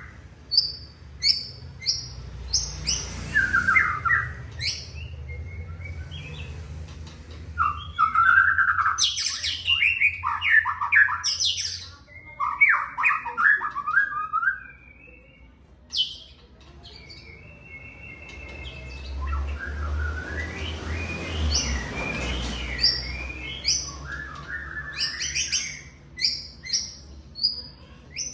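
White-rumped shama (murai batu) singing: varied whistled phrases that bend up and down, mixed with short, sharp chirps repeated in quick series, over a low steady hum.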